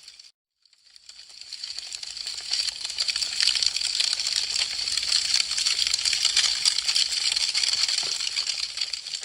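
Wood fire crackling: a dense run of small, sharp pops. It cuts out briefly just after the start, then swells back in and tapers off near the end.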